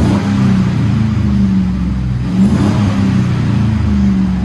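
2009 Chevy Silverado's 5.3 L V8 revving through a true dual exhaust with a Borla Pro XS ahead of an 18-inch Magnaflow muffler. The pitch rises near the start and again about halfway through, where it is loudest. The exhaust note is deep.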